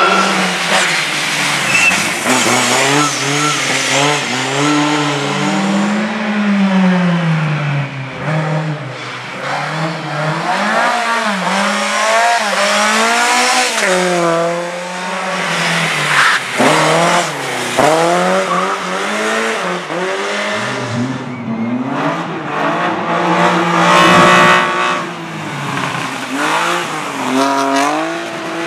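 Several racing cars' engines revving hard, rising and falling in pitch as they accelerate, shift and brake through the corners, overlapping one another, with some tyre squeal.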